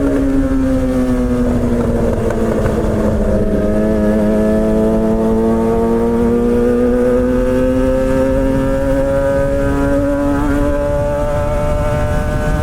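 The inline-four engine of a Suzuki GSX-R600 K7 with a straight-piped M4 exhaust and no catalytic converter, running under way at a steady speed. Its note dips over the first couple of seconds, then slowly rises as the bike picks up speed, with wind rush over the helmet mic beneath it.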